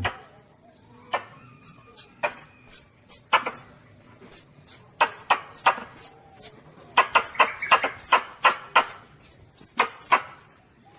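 Young Asian palm civet giving a rapid string of short, high-pitched squeaks, most falling in pitch, tightly bunched from about a second in and stopping shortly before the end.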